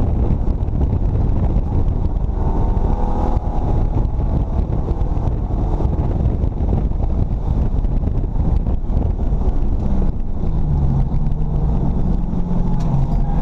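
Ford 351 Windsor V8 in a stripped BMW E34 race car running hard at racing speed, heard loud from inside the cabin. Its note shifts a couple of times as the throttle changes.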